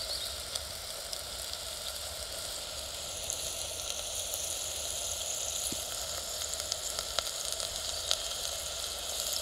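Onions frying in sunflower oil in a pot on a wood-gas camp stove: a steady sizzle with a few faint crackles.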